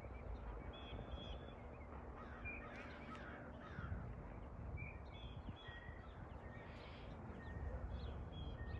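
Birds calling outdoors: scattered short calls, with a quick cluster of falling notes about three seconds in, over a faint low rumble.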